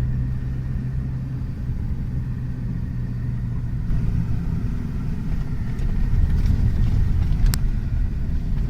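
Low motor-vehicle engine rumble: a steady low hum for the first half, then a rougher rumble, with a single sharp click near the end.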